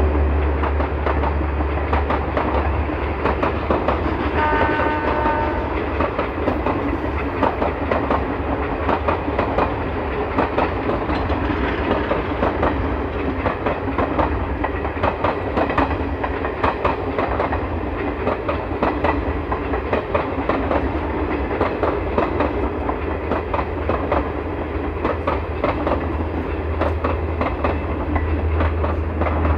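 Passenger train arriving, its coaches rolling past with a steady rumble and the wheels clicking over rail joints. A brief horn sounds about four seconds in.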